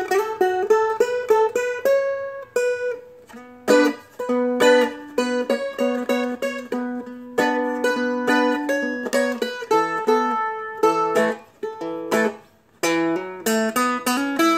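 Seagull Merlin, a four-string dulcimer-style instrument, flatpicked: a quick line of single melody notes climbing up the neck over ringing strings, with a couple of short breaks near the end.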